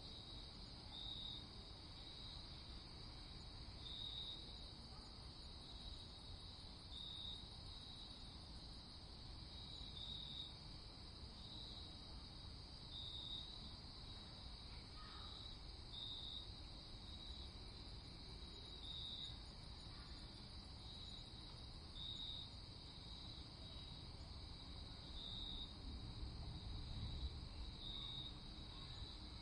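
Crickets chirping in a steady high trill, with brighter pulses recurring about once a second, over a faint low rumble.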